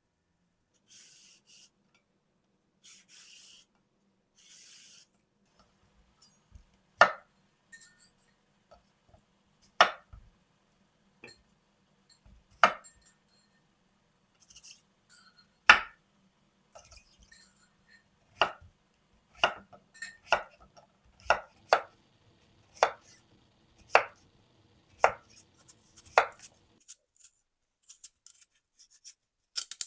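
Knife chopping food on a cutting board: single sharp knocks, spaced out at first and then settling into a steady cut about once a second. A few short rustles come before the chopping starts.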